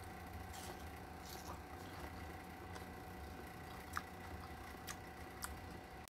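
A person chewing a mouthful of food, with faint soft clicks from the mouth, one sharper about four seconds in, over a steady low hum.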